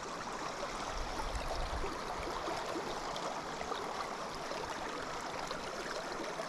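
Steady rushing of a flowing river's current.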